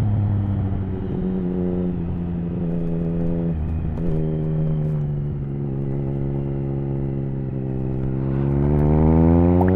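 Triumph Speed Triple 1050's inline three-cylinder engine running through an aftermarket HP Corse Hydroform exhaust with its dB killer fitted, heard on the move. The revs change in steps a couple of times in the first four seconds, hold fairly steady, then climb smoothly near the end as the bike accelerates.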